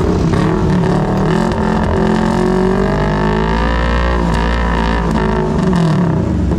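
Motor vehicle engine running in the street, its pitch climbing for a couple of seconds and dropping about four seconds in, then rising again.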